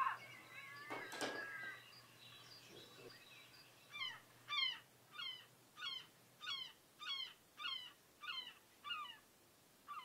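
A bird calling outside: a series of short, falling notes repeated about twice a second, starting about four seconds in. A single sharp click comes about a second in.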